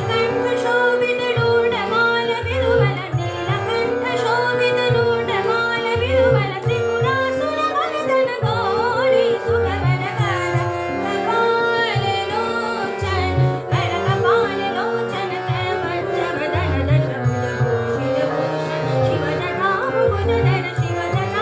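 Hindustani dhrupad music in raga Purvi in sultal: an ornamented sung melody, sliding between notes, over a steady drone, with a low drum striking the rhythm.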